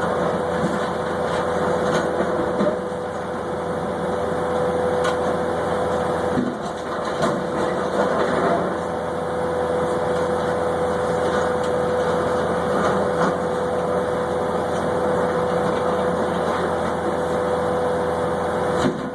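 Engine noise that holds steady throughout, with a constant high-pitched whine over it.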